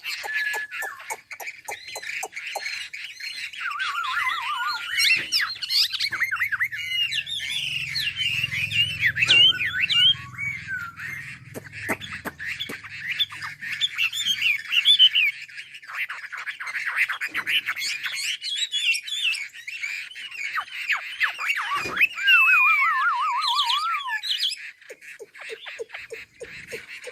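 Chinese hwamei (họa mi) singing a long, varied song of rapid whistled phrases, warbles and trills, including a wavering trill that falls in pitch a few seconds before the end.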